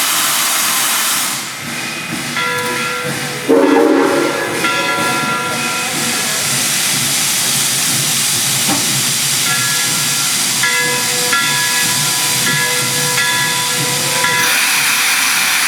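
Steam locomotive CNJ 113, a 0-6-0, standing with steam hissing, with a sudden louder gush about three and a half seconds in. Its chime whistle sounds as a chord of several notes, in a long blow and then a run of shorter blows. The hiss swells again near the end.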